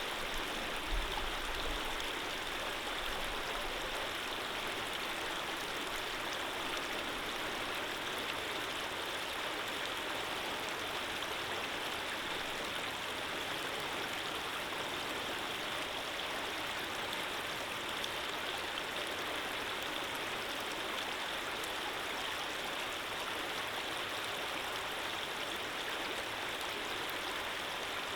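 Running water flowing steadily, an even rushing hiss with no pauses or changes. A faint low rumble sits under it in the first two seconds.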